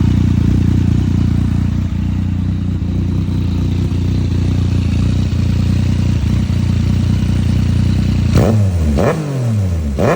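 Yamaha FZ-09's three-cylinder engine idling steadily through an aftermarket M4 exhaust, then blipped three times in quick succession near the end, each rev dropping straight back toward idle.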